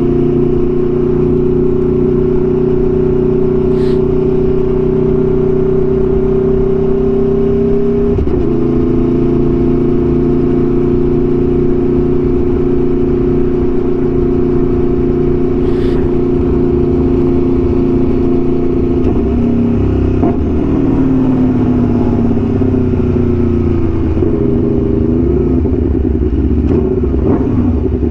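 Aprilia Tuono V4 1100's V4 engine through an SC-Project exhaust, ridden at steady revs. The note dips briefly about a third of the way in, falls away past two-thirds of the way, and rises and falls a few times near the end.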